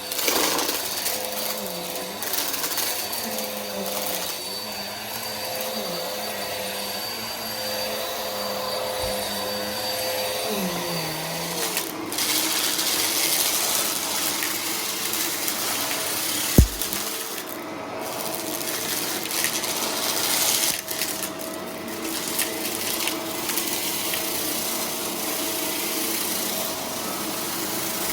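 Vacuum cleaner running steadily as it picks up confetti, with a steady motor hum. The motor's pitch shifts a little before halfway, and there is a single sharp knock a little past the middle.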